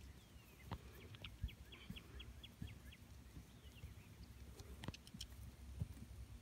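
Faint outdoor ambience: a bird gives a run of about eight short, evenly spaced high notes a second or so in, over a low rumble, with a few soft thumps.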